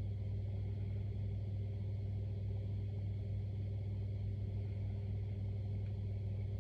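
A steady low hum with evenly spaced overtones, unchanging in pitch and level.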